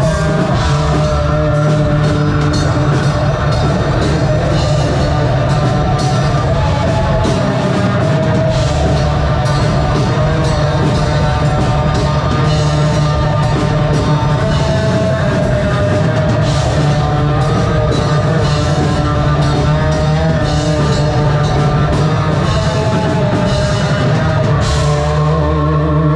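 A metal band playing live: distorted electric guitars and bass over a drum kit, with drum hits throughout and no break.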